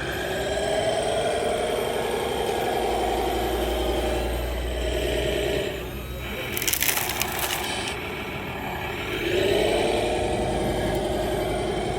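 RC model truck's engine sound, rising and falling in pitch like a diesel being revved, easing off briefly about six seconds in and then building again. A short burst of crackling hiss comes about seven seconds in.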